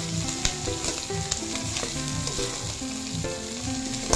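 Chopped boiled beef innards sizzling in hot oil with sautéed garlic, onion and ginger, stirred with a spatula that scrapes and clicks against the metal pot.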